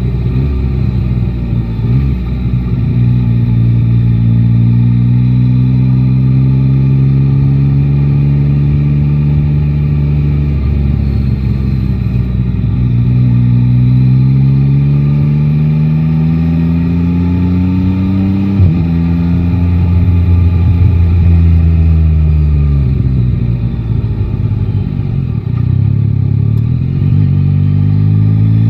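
Three-cylinder motorcycle engine under way, its pitch climbing slowly through long pulls with two drops back as gears change. There is a sharp click about two-thirds through, then the engine note falls away as the bike slows and picks up again near the end.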